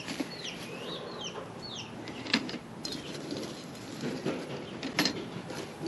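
Hens calling and clucking in the coop, a few short warbling calls in the first second and a half, with a couple of sharp knocks later on.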